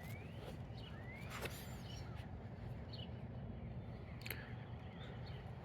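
Faint outdoor ambience: a bird calling in short, thin rising notes a few times over a steady low rumble, with a few faint clicks.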